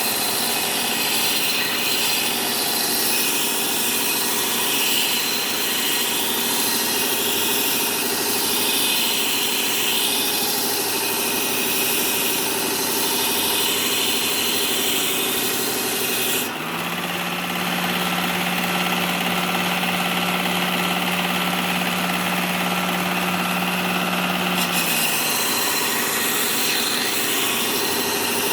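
Electric belt sharpener's 120-grit belt grinding a steel pickaxe edge, a steady rasping hiss over the motor's running sound. About two-thirds through, the grinding drops away for several seconds, leaving the motor's steady hum, then resumes.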